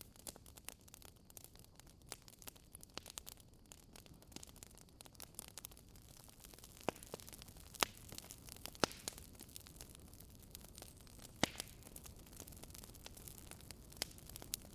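Wood fire burning in a fireplace, crackling: a dense stream of small crackles over a low hiss, with a few louder, sharper pops in the second half.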